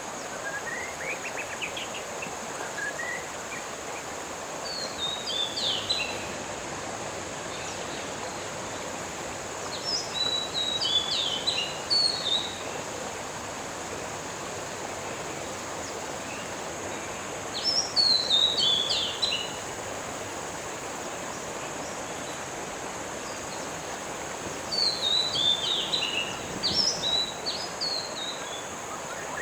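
A songbird singing short bursts of rapid high chirping notes, four phrases spaced about seven seconds apart, over a steady outdoor rushing noise and a continuous high, even drone.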